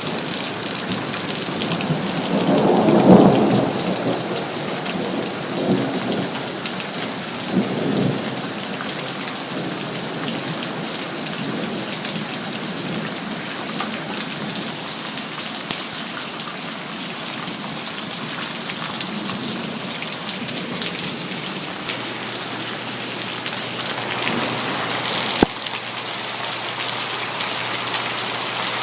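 Steady rain with thunder: one rolling rumble swells and fades a few seconds in, followed by two weaker rumbles. A single sharp click sounds near the end.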